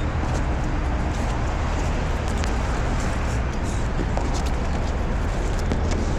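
Steady city road traffic noise with a low rumble, with scattered light ticks over it.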